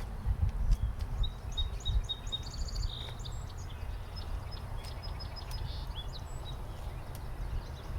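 Wild birds singing: a run of short, high chirps and quick trills, busiest in the first few seconds, over a steady low rumble.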